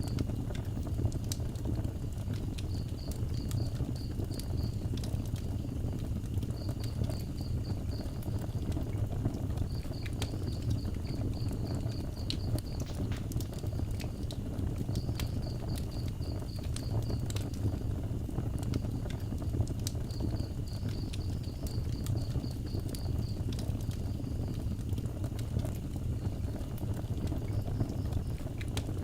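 Wood fire burning with a steady low rumble and scattered sharp crackles and pops. An insect chirps in short pulsed trills every few seconds.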